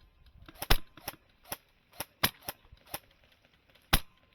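Airsoft rifles firing single shots in an irregular series of sharp cracks, about nine in all, a few loud and close, the rest fainter.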